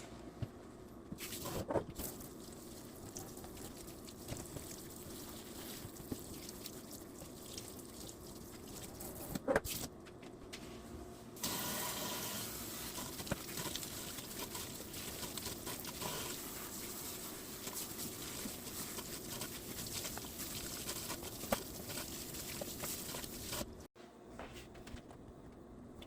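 Tap water running into a sink while a vintage doll's hair is rinsed under it, with a few small knocks of handling. The flow gets noticeably louder about halfway through and cuts off suddenly near the end.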